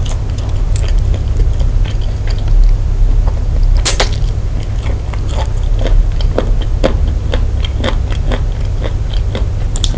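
Close-miked eating: a person biting and chewing chicken pulled from the bone by hand, with many small wet clicks and one sharp click about four seconds in, over a steady low hum.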